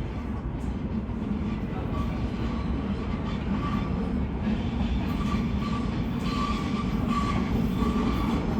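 R46 subway train approaching on the rails, a steady rumble of wheels and running gear that grows gradually louder, with a faint high squeal coming and going.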